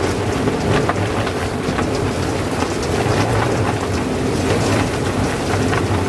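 Heavy rain and gusting gale-force wind on a sailboat: a dense, steady patter of drops striking the boat over a low rumble of wind.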